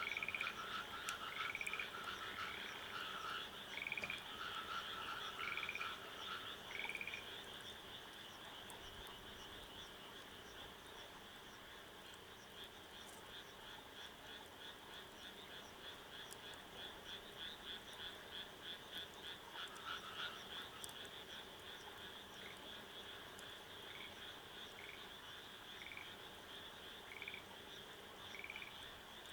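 A chorus of frogs calling: a steady fast-pulsing trill underneath, with short repeated calls about once a second for the first several seconds that come back near the end.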